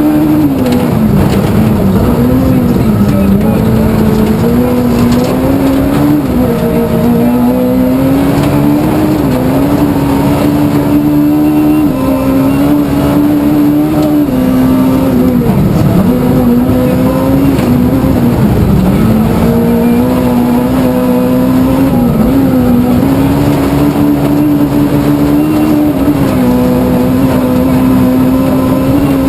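Small-capacity rally car engine (1400 cc class) driven hard on a special stage, its revs rising and falling continually through gear changes and lifts, with two sharp dips in pitch partway through.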